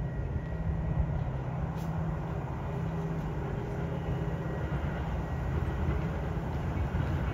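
Metra commuter train passing, its diesel locomotives giving a steady low rumble.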